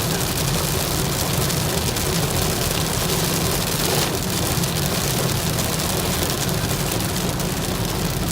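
Hail and heavy rain pelting the roof and windshield of a moving car, heard from inside the cabin as a dense, steady patter over a low road rumble.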